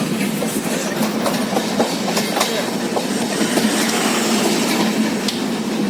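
A passenger train running at speed, heard from on board: a steady rumble and rattle with scattered clicks of the wheels over the rails.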